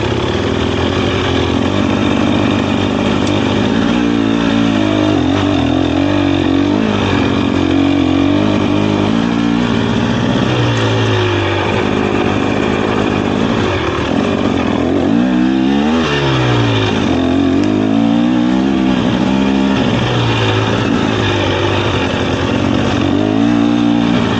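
Dirt bike engine being ridden hard, its pitch rising and falling over and over as the rider revs and backs off.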